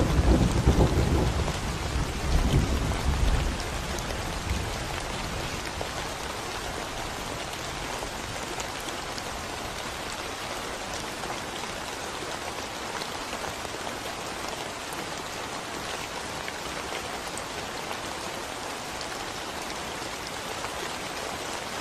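Steady rain falling on a concrete road, an even hiss of drops. A low rumble of thunder fades out over the first few seconds.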